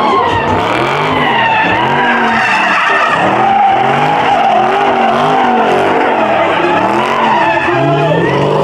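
A muscle car doing a burnout: its engine revs rise and fall quickly over and over, under a continuous tire squeal.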